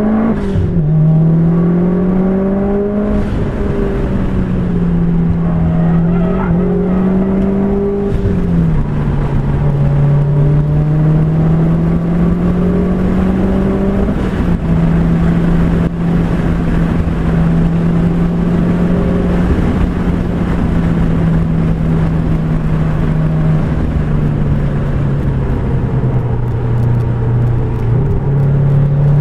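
Car engine heard from inside the cabin at full throttle, its note climbing through the gears with upshifts in the first half. It holds a steady drone at about 100 mph, then falls away under braking, with a downshift near the end.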